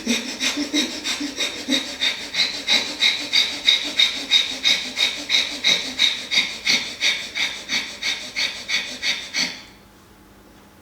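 Himalayan Kapalabhati breathing: rapid, forceful exhalations pushed through a throat narrowed for Ujjayi, giving a rasping breath about three times a second. The breathing stops abruptly near the end.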